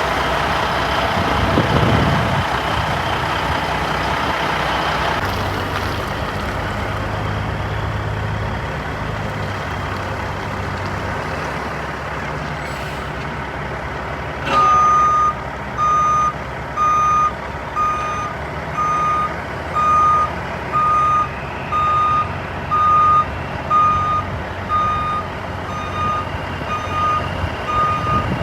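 Heavy truck engine running steadily. About halfway through, the truck's reversing alarm starts beeping about once a second.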